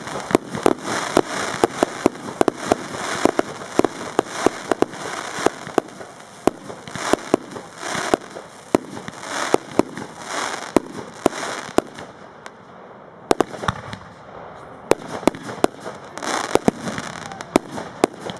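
Aerial fireworks display: a rapid run of sharp shell reports, with swells of crackling and hiss from bursting stars. The bangs thin out for a few seconds past the middle, then pick up again near the end.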